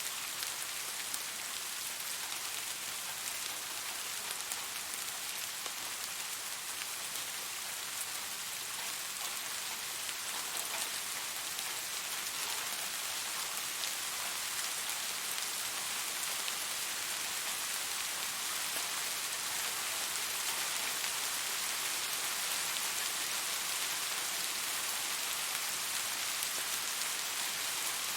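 Steady rain falling, a dense, even hiss with scattered faint drop ticks, growing slightly heavier near the end.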